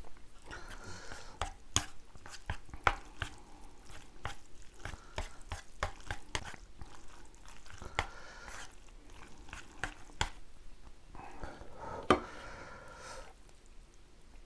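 Close-miked eating of spicy jjapagetti black-bean instant noodles: wet chewing and mouth sounds with many sharp clicks, and a longer noisy stretch about twelve seconds in.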